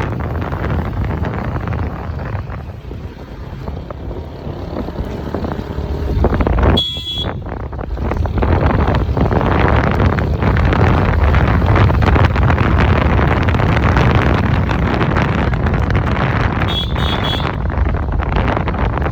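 Wind buffeting the microphone over the engine and road noise of a TVS Ntorq scooter being ridden. A short high beep cuts in about a third of the way through, and a fainter one comes near the end.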